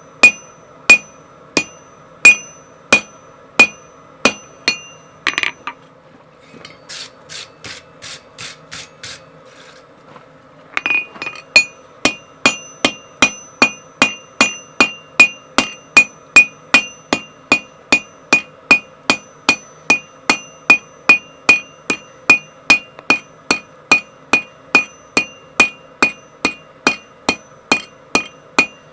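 Hammer forging steel on an anvil: sharp blows, each with a ringing anvil note, at about two a second. About five seconds in the heavy blows stop for a few seconds of lighter, quieter taps, then resume in a steady rhythm.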